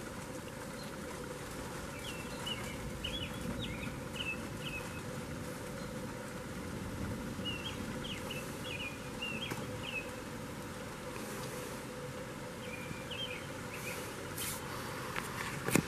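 A bird singing short chirping phrases in bursts every few seconds, over a steady hiss of rain. A sharp click near the end is the loudest sound.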